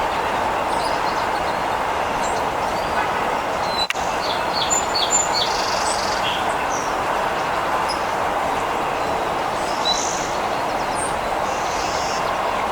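Steady background roar of distant traffic, with a few short, high bird chirps about three to six seconds in and again near ten seconds.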